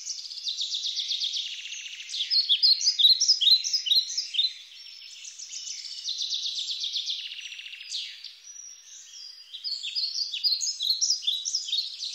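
Small birds singing: many quick high chirps and fast trills overlapping, easing off briefly twice.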